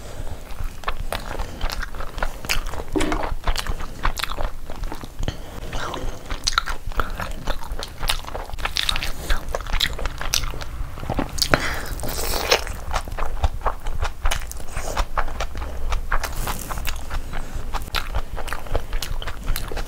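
Close-miked chewing and biting of tandoori chicken and biryani rice eaten by hand: steady wet mouth sounds packed with short sharp clicks.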